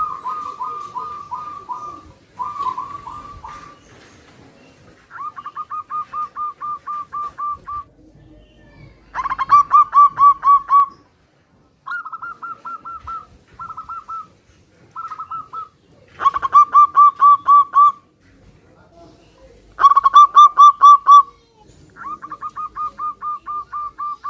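Zebra doves (perkutut) cooing in turn, one answering another. About ten phrases of quick, rolling coo notes, each lasting one to two and a half seconds, come one after another with short pauses. Some phrases are much louder than others.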